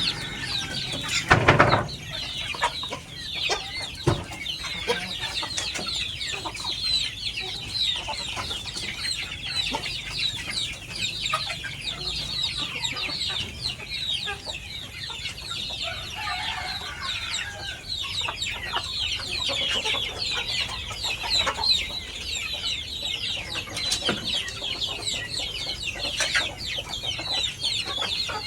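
A flock of village chickens calling and clucking, with many overlapping high calls throughout. A loud thump about a second and a half in.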